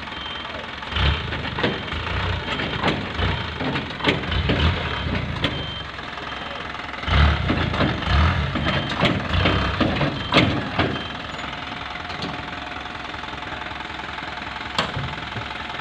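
Isuzu Giga dump truck engine running, with two spells of irregular thumps and clatters lasting several seconds each, then steadier running with a single sharp knock near the end.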